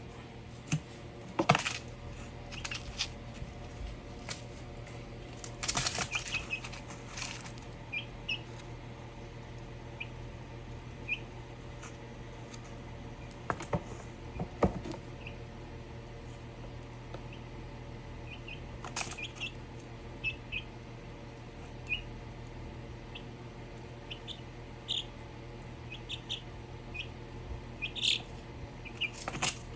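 A chicken making short, high chirps scattered throughout, with occasional sharp taps and knocks over a steady low hum.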